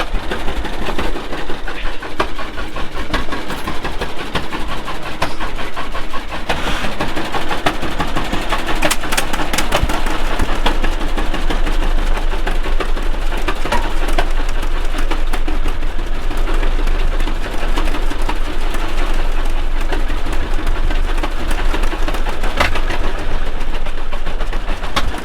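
John Deere G tractor's two-cylinder engine running steadily as the tractor is driven.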